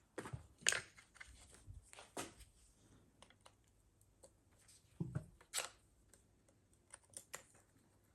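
Irregular clicks, taps and knocks of hand tools and small pump parts being handled while a circulation pump is taken apart, some sharp and some dull, at an uneven pace.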